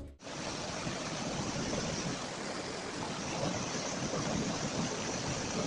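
A steady rushing noise, like wind or surf, that starts abruptly a moment in and holds even throughout.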